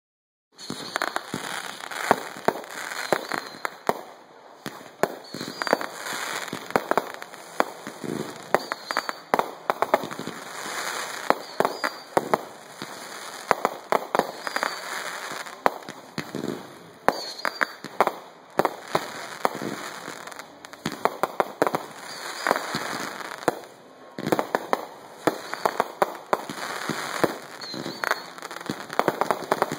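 Fireworks going off in rapid, irregular sharp bangs and crackling, several reports a second, with a few brief lulls.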